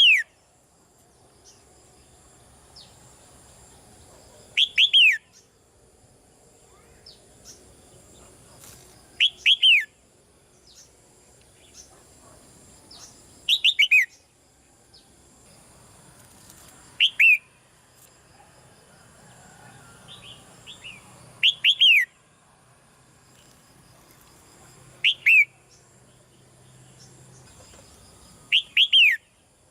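Red-whiskered bulbul calling: short loud phrases of two or three quick falling whistled notes, repeated about every four seconds, with fainter chirps between them.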